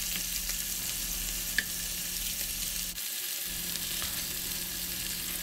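Chicken thigh pieces sizzling in hot oil in a frying pan: a steady frying hiss, with one light tick about a second and a half in.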